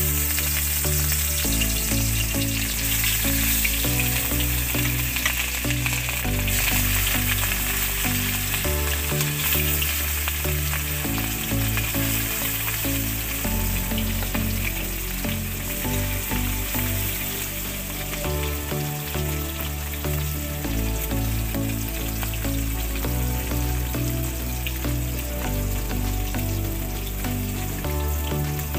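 Rohu fish pieces sizzling steadily as they shallow-fry in hot refined oil in a kadai. Soft background music with slowly changing chords plays underneath.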